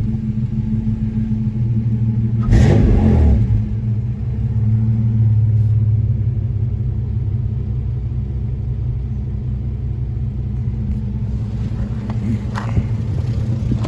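A 4.3-litre V6 engine in a 1947 Ford F1 pickup idling steadily, with a brief rev about two and a half seconds in.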